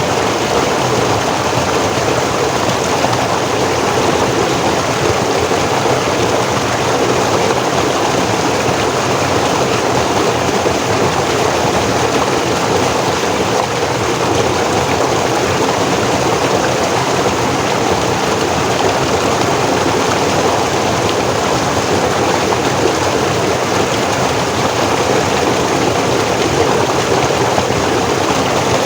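Forest stream flowing and splashing over rocks in a steady, unbroken rush of water.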